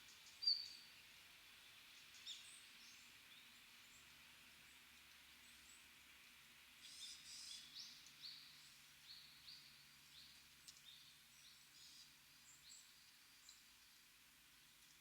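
Small wild birds calling over a faint steady background hiss: one sharp high call about half a second in, then a run of short, high chirps from about seven seconds on, thinning out towards the end.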